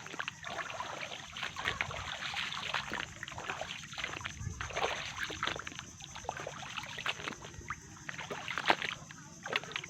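Irregular splashing and sloshing in shallow water, with small sharp clicks and squelches mixed in.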